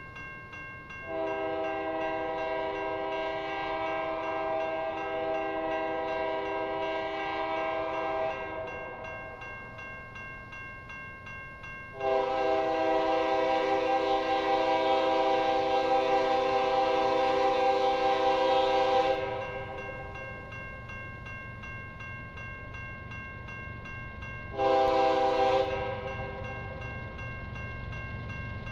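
A GE ES44AC diesel locomotive's air horn sounding two long blasts and a short one, the opening of the grade-crossing signal. The train's low rumble grows louder from about two-thirds of the way in as it approaches.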